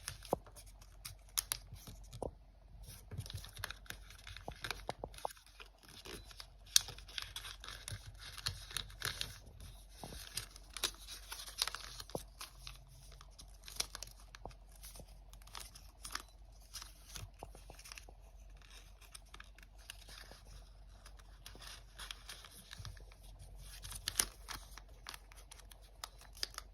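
Origami paper being folded and creased by hand, with irregular crinkling and many small crackles and clicks.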